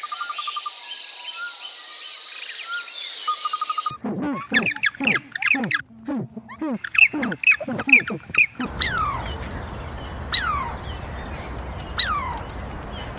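Birds calling, in three back-to-back recordings. First come short whistled trills over a steady high hiss with regular ticks. About four seconds in, a rapid run of short calls follows. Near the middle, the sound changes to three high whistled calls, each falling steeply in pitch, about a second and a half apart over a noisy background.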